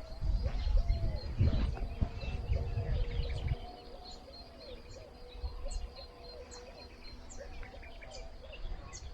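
Birds singing outdoors: a steady run of short, repeated arched calls, with thin high chirps scattered over them. A low rumble fills the first three and a half seconds, then fades out.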